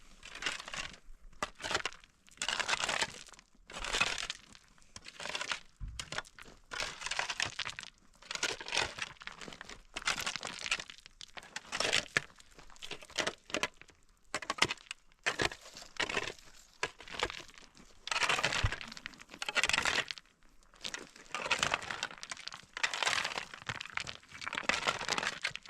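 Repeated rough crackling and crunching strokes, about one a second and uneven in length, like dry branches or brush being broken and handled.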